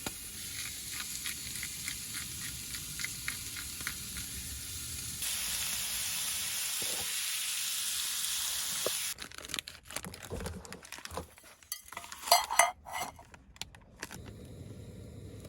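Food sizzling as it fries in a pan, with light scrapes and ticks of a utensil stirring it; the sizzle gets louder about five seconds in. It cuts off abruptly, then several clanks of cookware follow, the loudest a little past the middle.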